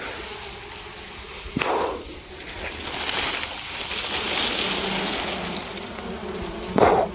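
Bees buzzing steadily around a wild nest that is being smoked out. A hissing rush rises in the middle, and two short sharp sounds come about two seconds in and near the end.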